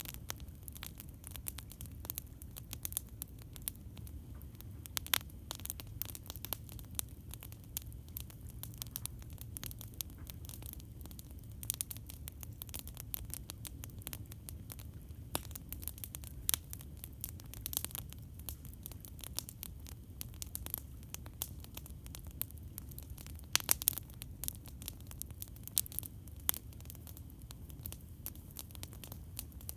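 Wood campfire crackling: a steady stream of irregular sharp pops and snaps over a constant low rumble, with a few louder pops scattered through it.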